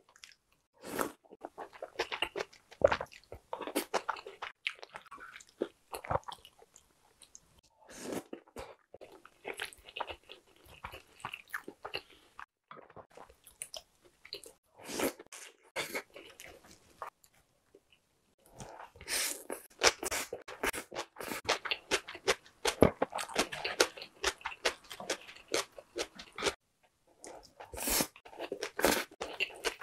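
A person chewing and biting pieces of jeon (Korean pan-fried pancakes) taken from a spicy stew, with clusters of short mouth clicks coming in bouts and brief pauses between bites.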